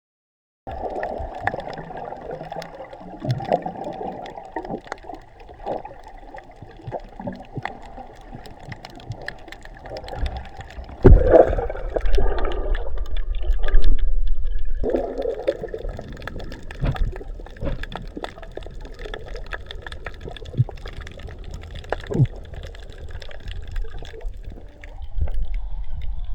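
Water sloshing and gurgling, muffled and low, with a louder surge in the middle.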